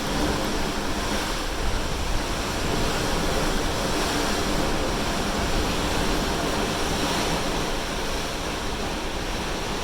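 Ocean waves rushing steadily past a moving cruise ship, an even sea-wash noise.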